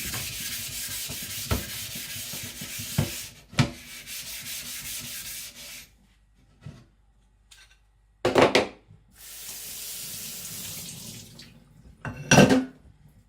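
Steel knife blade rubbing on a wet whetstone, a steady wet hiss for about six seconds. Then come a loud clunk, a shorter stretch of the same hiss, and a second loud clunk near the end.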